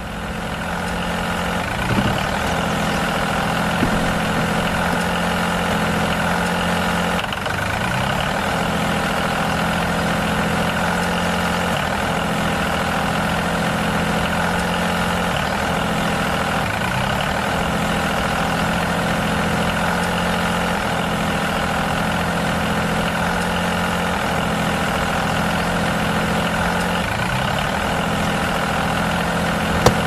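Tractor engine running steadily while the miniature tractor pulls a cultivator through sand. Its pitch dips briefly and recovers every two to three seconds.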